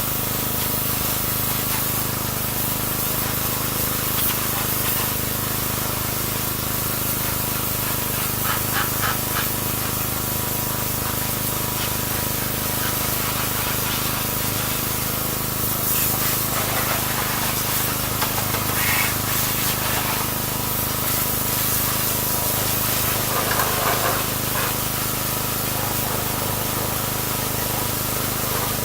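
Pressure washer spraying steadily, with a constant hum underneath.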